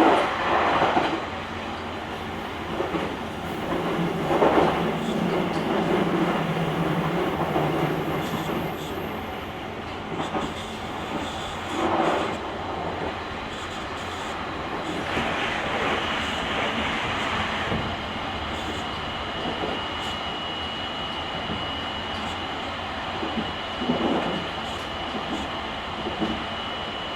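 JR Kyushu 883 series electric express train running at speed, heard inside the motor car's vestibule: continuous wheel and rail rumble with heavier thumps of wheels over rail joints a few times, and a thin steady high tone in the second half.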